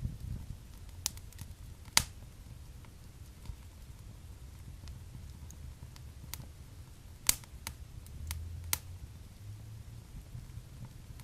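Wood fire burning in a fireplace, crackling with scattered sharp pops over a low steady rumble. The loudest pop comes about two seconds in, and a cluster of pops follows later on.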